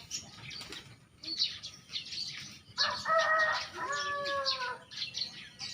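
A rooster crows once about three seconds in, a long call of about two seconds that falls in pitch at the end, over small birds chirping throughout.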